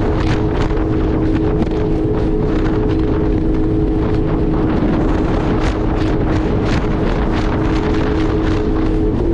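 Jet ski running at a steady speed, its engine holding a steady two-note whine. Water slaps the hull in quick, irregular splashes, and wind buffets the microphone.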